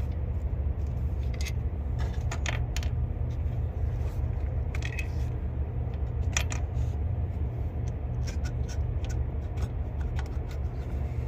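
Scattered metallic clinks and light scrapes as hand tools and the thermostat housing are worked free of the engine, over a steady low rumble.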